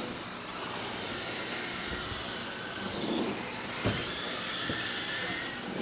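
Radio-controlled race trucks running laps on a clay oval: a steady motor noise with faint high whines that rise and fall as the trucks pass, and a short knock about four seconds in.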